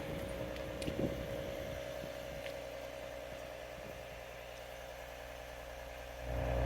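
2012 Ford Mustang's engine idling steadily shortly after a cold start in freezing weather. There is a brief knock about a second in, and the low rumble grows louder near the end.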